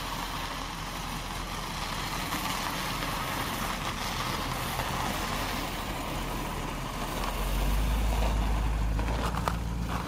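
1958 Cadillac Fleetwood Sixty Special's V8 running as the car drives slowly past on snow; its low exhaust rumble gets louder about seven and a half seconds in as the car comes close.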